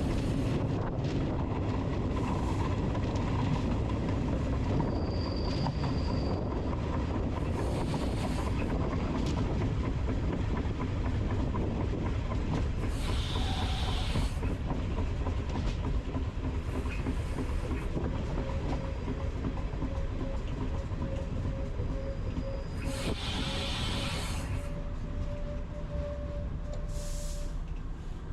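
Train running on the rails with a steady low rumble and rail noise. Two short bursts of hiss come about 13 and 23 seconds in.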